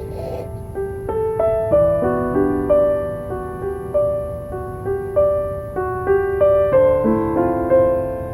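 Slow, gentle solo piano music, single notes struck about every half second over soft chords. A brief crackle comes right at the start.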